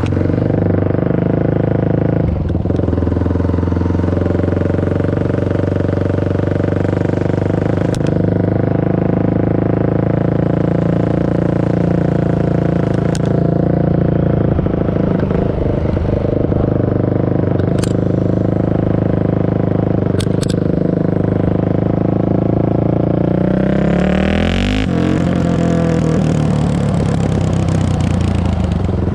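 Honda CRF450R single-cylinder four-stroke engine with an FMF full exhaust and no spark arrestor, running loud and steady. About five seconds before the end its pitch drops and then climbs again.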